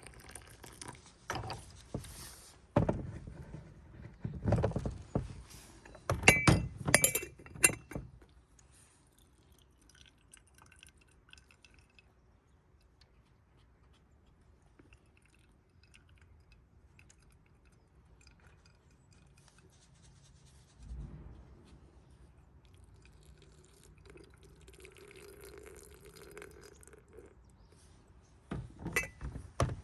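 Glass teaware clinking and knocking as it is handled, with a quick run of clinks in the first eight seconds, a single dull thump about two-thirds of the way through, and a few more clinks near the end.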